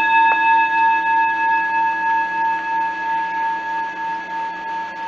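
A struck singing bowl ringing out, several steady tones slowly fading, with a faint tap about a third of a second in.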